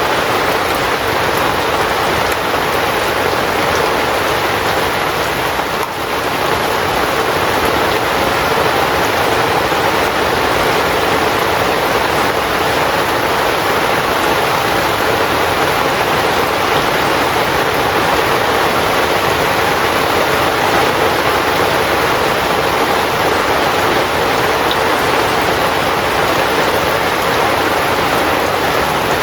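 Steady heavy rain falling on a tent's fabric, a dense, even hiss with a brief dip about six seconds in.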